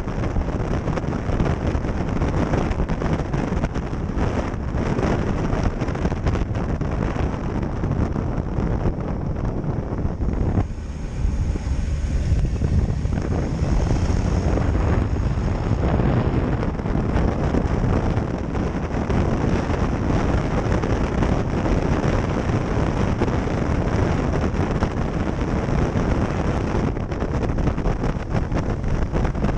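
Kawasaki Ninja H2 SX SE motorcycle being ridden at speed, a steady rush of wind on the microphone over the engine. The sound dips briefly about ten seconds in, then picks back up.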